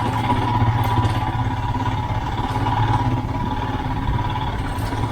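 Royal Enfield Himalayan's 411 cc single-cylinder engine running steadily at low revs.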